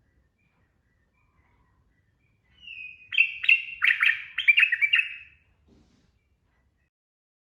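Yellow-vented bulbul (trucukan) singing one phrase of rapid, clear notes, about three seconds long, starting about two and a half seconds in.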